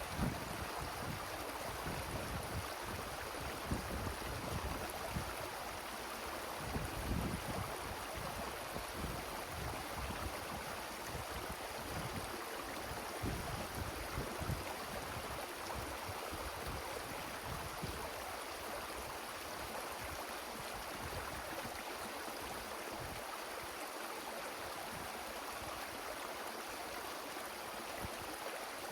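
Wind rushing through forest trees as a steady noise, with gusts buffeting the microphone in low rumbles that ease off about two-thirds of the way through.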